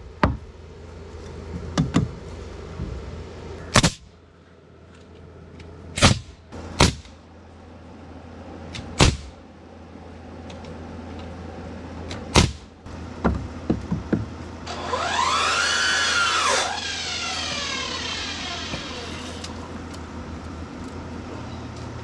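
Sharp single blows of nails being driven into framing lumber, one every one to three seconds. About fifteen seconds in comes a two-second whine that rises and then falls in pitch.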